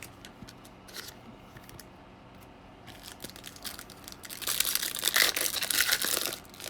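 A trading-card pack's plastic wrapper torn open and crinkled, loudest for about two seconds starting around four seconds in, after a few light rustles and clicks of cards being handled.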